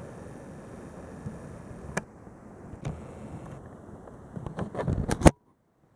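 Light handling noises: faint rustling with a few sharp clicks, growing busier about four and a half seconds in and ending in one loud click, after which the sound cuts off to dead silence.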